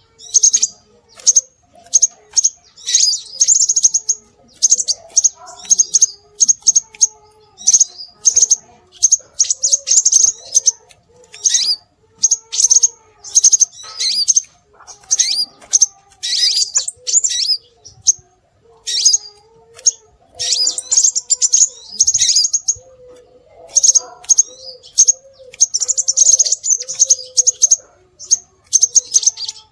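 Scarlet minivet calling: dense runs of rapid, high chirps and short whistles, coming in bursts with brief gaps, over a fainter low wavering tone.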